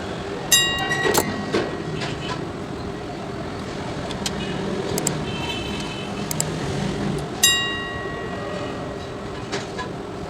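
Bench-work handling noises while an amplifier is assembled: scattered small clicks and two sharp clinks, about half a second in and again near 7.5 s, each ringing briefly, over a steady background hum.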